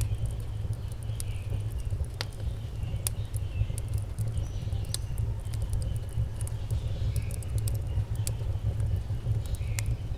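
Wind buffeting the microphone outdoors, a steady low rumble that rises and falls, with scattered small sharp clicks over it.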